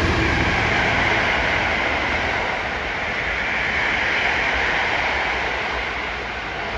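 A train rolling past along the track: a steady rushing of wheels on rail, easing off slightly toward the end.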